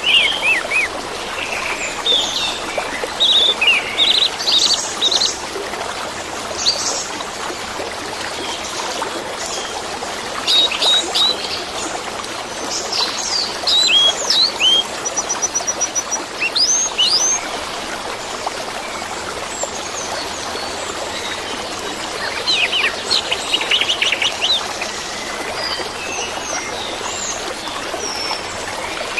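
Orange-headed thrush singing in bursts of quick high chirps and whistles, over a steady trickle of running water.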